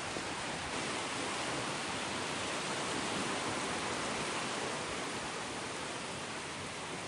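Sea waves breaking and washing on a sandy beach: a steady rushing surf that swells a little around the middle.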